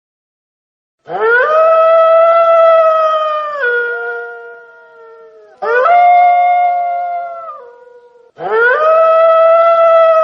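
Wolf howling: three long howls, each rising quickly to a held note, then dropping to a lower pitch and fading. The first starts about a second in, the second a little past the middle, and the third runs on past the end.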